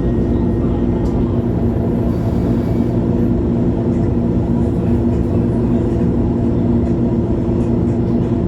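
Diesel engine of a 2011 MAN Lion's City G (A23) articulated city bus running at a steady speed, with an even hum that does not change.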